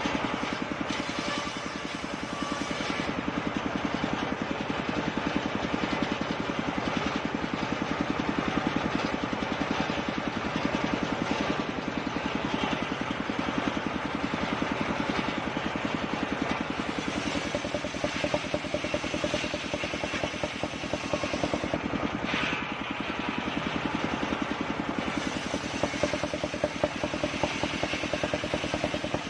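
Circular-saw wood-cutting machine running steadily while its blade rips kapok wood into boards: a continuous mechanical drone with a fast, even pulse.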